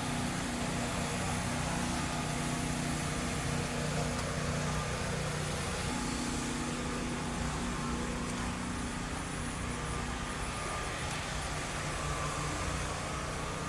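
Motor vehicle engine running steadily with a low, even hum over outdoor background noise; the hum eases off near the end.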